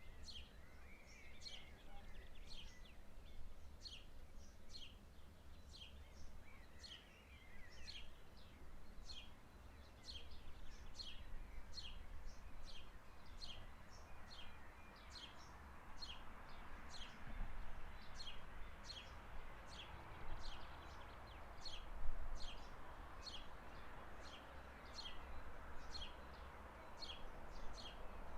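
A bird calling over and over: a short, high note that slides downward, repeated a little more than once a second. A low rumble runs beneath it, and a soft rushing noise swells up about halfway through.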